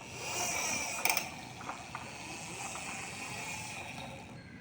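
A small geared mechanism whirring steadily, with a sharp click about a second in; the whirr fades out near the end.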